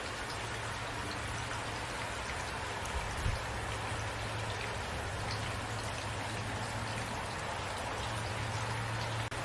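Steady rain falling, with individual drops ticking through it over a low steady hum. A brief low thump about three seconds in.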